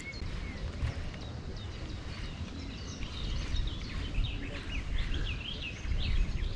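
Small birds chirping and calling repeatedly over a steady low outdoor rumble.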